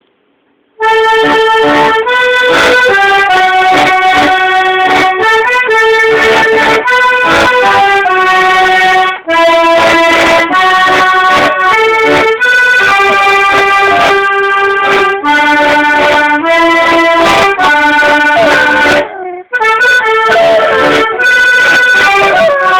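Melodeon (diatonic button accordion) playing a tune in sustained chords, starting just under a second in and pausing briefly twice. A dog howls along in places, its wavering pitch sliding over the steady notes.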